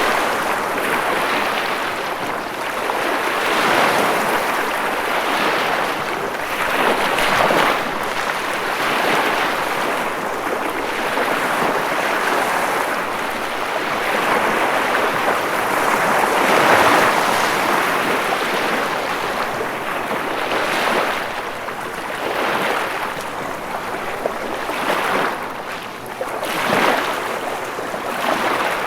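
Ocean waves washing onto a shore: a continuous rushing wash that swells as each wave breaks and eases between them, every few seconds.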